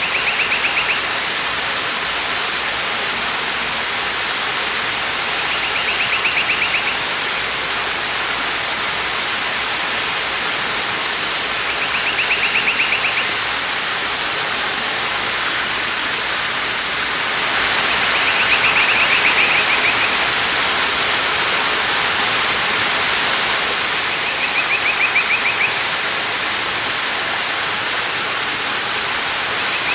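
Waterfall: a steady rush of falling water that swells slightly for a few seconds past the middle. Over it, a short rapid trill about a second long repeats roughly every six seconds, five times.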